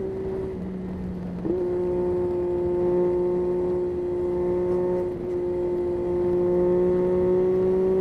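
Yamaha Tracer 9's 890 cc inline three-cylinder engine under way at steady revs. About a second and a half in the note gets louder as the throttle opens, then holds an almost constant pitch, rising slightly near the end.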